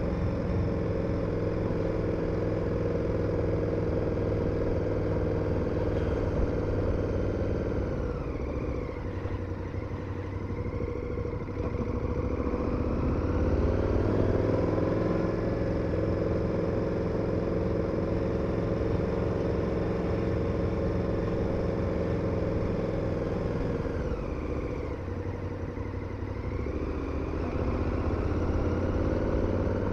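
KTM 1290 Super Adventure's V-twin engine running at a steady road speed. The pitch drops twice as the throttle is rolled off, once about a third of the way in and again near the end, and each time the revs pick back up.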